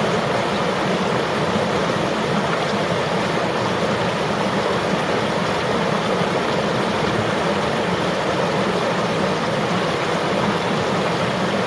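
River water flowing: a steady, even rush with no pauses or changes.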